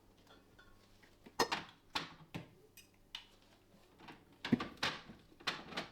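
Jars of pickles being handled on a refrigerator shelf: several light knocks and clinks, the loudest coming in quick succession near the end.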